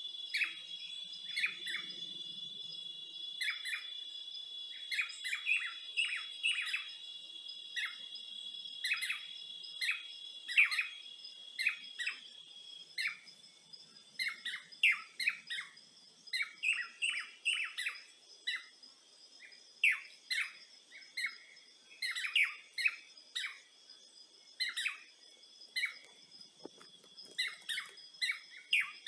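Birds chirping in quick, short repeated calls over a steady insect drone; the drone weakens about halfway through while the chirping goes on.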